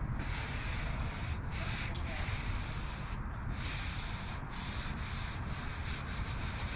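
Steady sanding of cured Bondo body filler on a repaired RV door panel, a continuous rasp broken by a few brief pauses.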